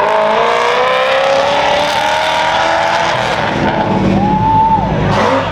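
A car accelerating hard, its engine pitch climbing steadily for about three seconds, then a short high squeal that rises and falls about four seconds in.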